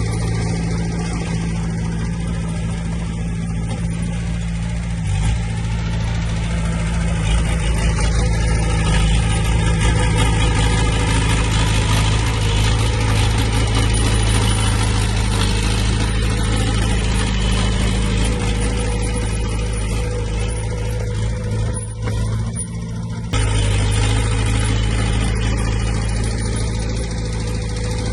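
Diesel engine of heavy earthmoving machinery running steadily under load, with a short dip about 22 seconds in before it comes back a little louder.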